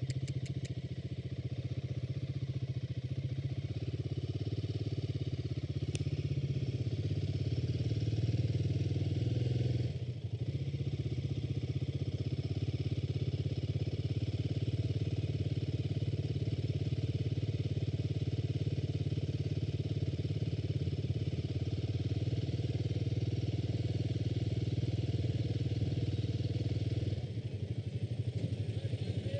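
Motorcycle engine running steadily, dipping briefly about a third of the way in and dropping to a lower, quieter note near the end.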